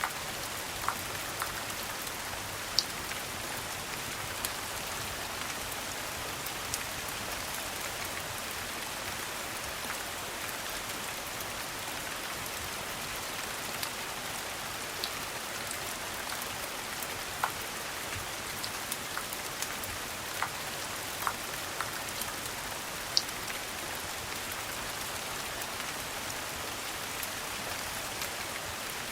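Steady rain falling, an even hiss with scattered sharp ticks and drips standing out from it now and then.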